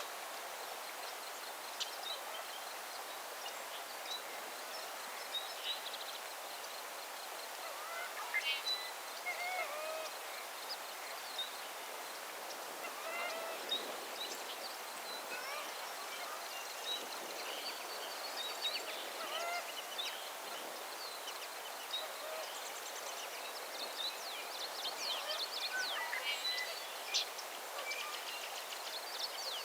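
Outdoor ambience of many birds calling: short chirps and whistled notes from several birds, coming thickest near the end, over a steady hiss.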